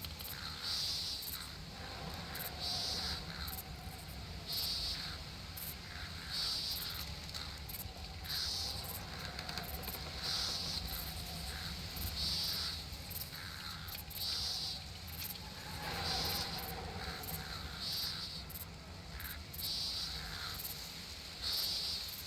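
Insect calling in a regular pulse, a short high buzz about every two seconds, over a steady low background rumble.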